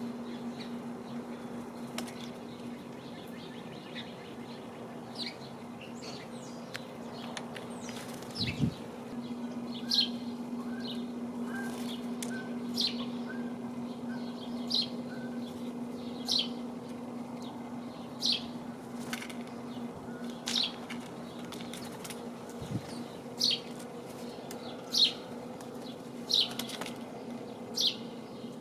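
Small birds calling at a backyard feeder: sharp, high, falling chirps repeated about once every second or two, starting about a third of the way in, with a run of softer lower notes in the middle. A steady low hum sits underneath.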